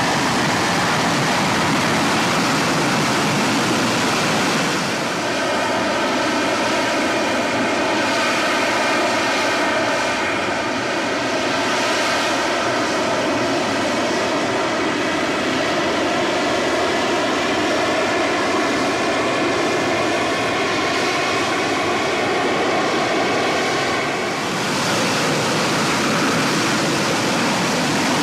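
AV-8B Harrier's Pegasus turbofan jet engine running loud and steady as it hovers on thrust from its downward-pointed nozzles. A whining set of tones rides over the roar from about five seconds in until near the end.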